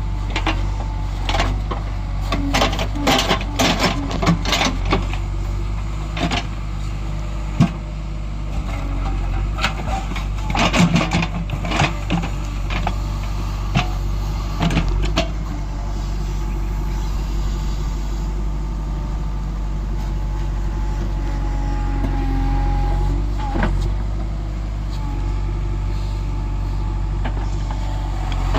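Heavy diesel engine running steadily at a low, even drone. Through the first half, many sharp knocks and clanks sound over it; after that it runs on more evenly.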